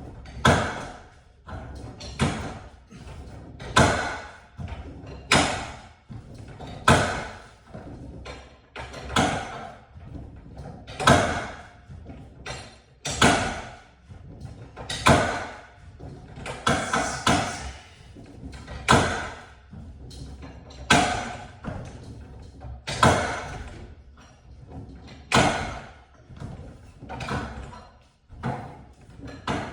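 A series of sharp knocks or bangs, one every second or two, each dying away with a short ringing tail.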